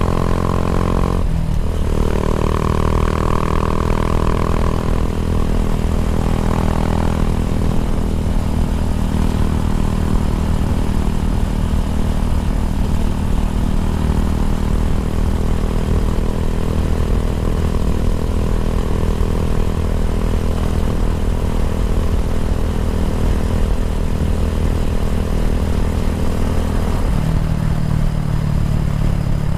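Kawasaki W175's air-cooled single-cylinder engine running through an aftermarket racing exhaust, a loud, steady engine note. The note changes about a second in and again near the end.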